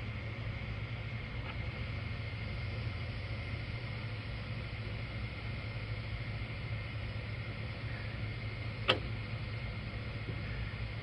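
Steady low hum with a faint high steady tone, and one sharp click about nine seconds in.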